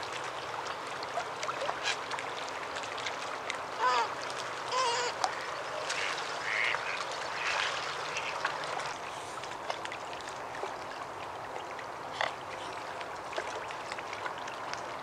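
Waterbirds calling across a lake: a pair of short wavering calls about four and five seconds in, then fainter calls for a few seconds, over a steady background hiss.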